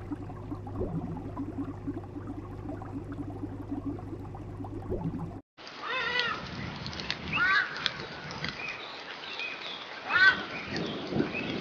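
Animal calls from two separate recordings. The first has a steady low hum under it and cuts off abruptly about five seconds in; the second follows after a brief gap, with short, high, arching calls repeated several times.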